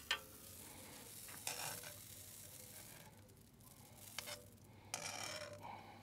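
Smash burger patties sizzling in a pan of teriyaki sauce over charcoal, with a few short scrapes and clicks of metal tongs as the patties are picked up and moved in the sauce.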